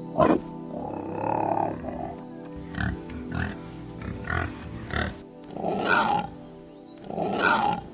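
Tapir calling: a series of short grunts and squeaky calls, ending in two longer squealing calls of about half a second each, with background music underneath.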